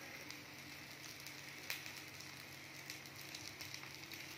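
Potato patties shallow-frying in a little oil in a non-stick pan on low flame: a faint, steady sizzle with fine crackles and the odd sharper tick.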